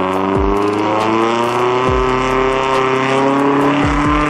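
A modified car's engine pulling away, its pitch rising slowly and steadily as it accelerates. A few deep bass thumps that drop sharply in pitch come through it.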